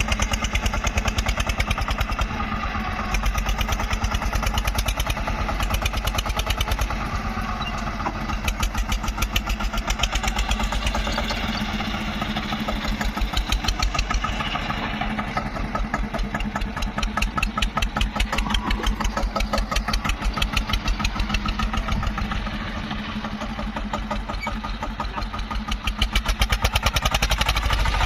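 Tractor diesel engine running with a fast, even firing beat. Its level swells and drops every few seconds as the revs and load change.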